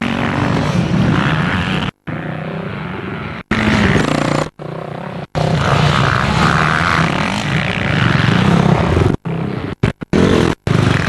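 Enduro motorcycle engine running under way, heard from the rider's helmet. The sound cuts out completely for a split second several times.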